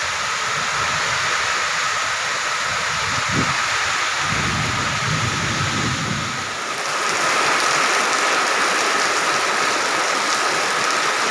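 Heavy rain pouring steadily, with a low rumble of thunder from about three and a half to six and a half seconds in; the rain gets louder about seven seconds in.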